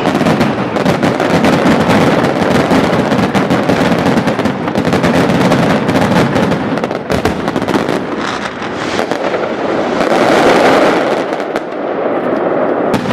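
A dense, continuous barrage of aerial firework shells bursting and crackling, loud throughout, easing slightly near the end.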